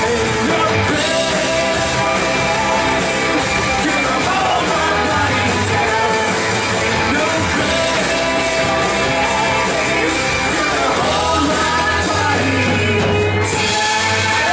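Live worship band playing an upbeat rock song, with voices singing along, loud and steady.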